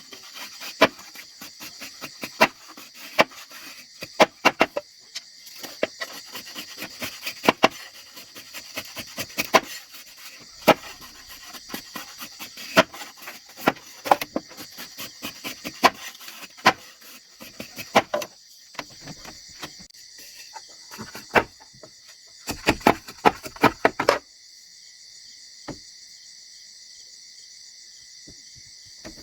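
Steady chorus of insects buzzing, with many sharp knocks and clicks over it that stop about three-quarters of the way through.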